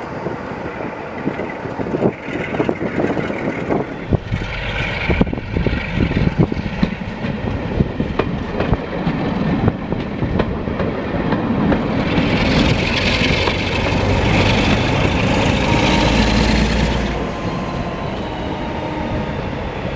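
Train coaches rolling over jointed track: a steady rumble with repeated wheel clicks over the rail joints. It grows louder and brighter for a few seconds in the second half, then eases off.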